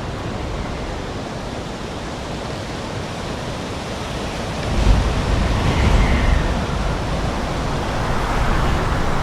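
Strong wind blowing hard against the microphone. It is a steady rushing noise, and from about five seconds in it turns into louder, low, rumbling gusts that buffet the microphone.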